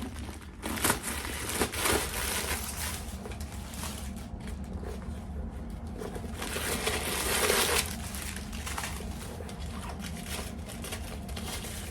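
Packaging rustling and crinkling as a handbag is unwrapped, in irregular bursts, with a louder, longer crinkle about two-thirds of the way through.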